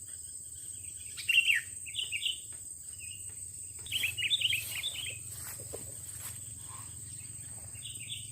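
Sooty-headed bulbul (kutilang) calling in short bursts of quick chirps, the loudest burst about four seconds in, over a steady high-pitched whine.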